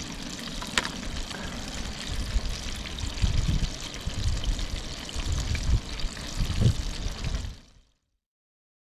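Batter-coated chicken pieces sizzling and bubbling as they deep-fry in a pot of oil at about 350 °F, a steady crackling hiss with a few low rumbles partway through. The sound cuts off abruptly near the end.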